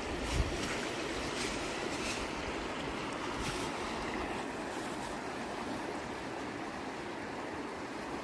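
Fast-flowing river water rushing steadily, with a brief low thump about half a second in.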